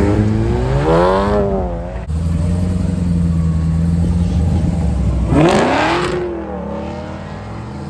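A Volkswagen Golf hatchback accelerates away from the curb, its engine pitch rising. Then a first-generation Pontiac Firebird's engine runs steadily as it rolls past, revs up about five and a half seconds in, and fades as the car pulls away.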